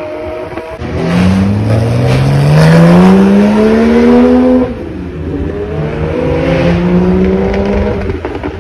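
Porsche 911's flat-six engine accelerating hard: its note climbs steadily for about four seconds, drops suddenly, then climbs again more gently before fading near the end.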